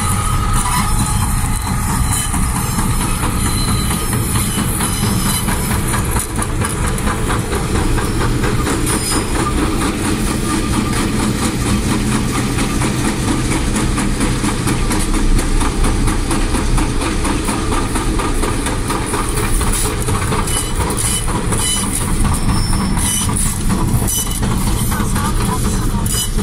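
Diesel freight locomotives running close by, engines rumbling, with a steady clickety-clack of wheels on the rails. The sound is heard from a car driving alongside the track.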